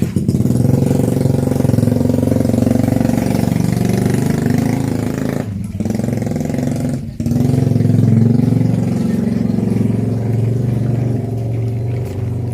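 A motor vehicle engine running close by, its pitch rising and falling, with two brief dips in sound about halfway through.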